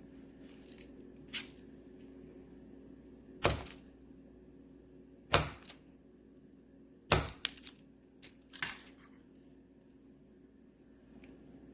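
A knife chopping through a hard, unheated loaf of wax melts: three loud cracking chops about two seconds apart, with smaller clicks and snaps of pieces breaking off around them.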